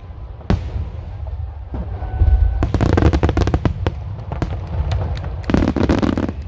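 Aerial fireworks shells bursting in quick succession. A sharp bang comes about half a second in, then a dense run of booms and crackling bursts from about two seconds, and another cluster of bursts near the end.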